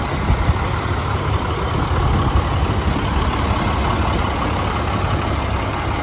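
International 4300 truck's 7.6-litre diesel engine idling steadily.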